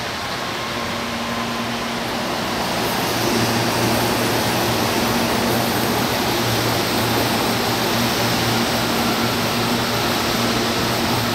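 Electric commuter train running along the platform close by: a steady rumble of wheels and running gear with a low motor and air-conditioning hum, growing louder about two and a half seconds in as the cars come alongside.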